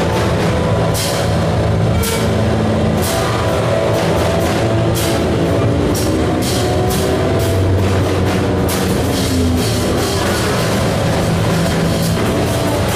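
Live noise music played loud: a dense, continuous wall of distorted sound with shifting low droning pitches and irregular crashing hits.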